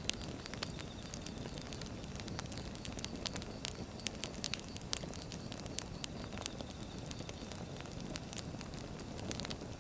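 Wood fire burning, the logs crackling and popping in sharp, irregular snaps over a steady low rumble.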